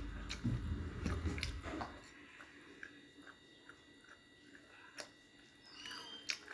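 Close-up chewing and biting of food, with wet mouth noises and small clicks. It is loudest for about the first two seconds, then continues faintly with scattered clicks and one sharper click about five seconds in.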